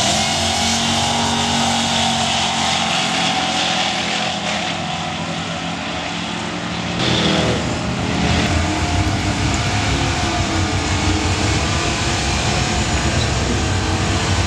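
Drag cars' engines running loud and steady at the start line. About halfway through, the sound cuts to another car's engine rumbling.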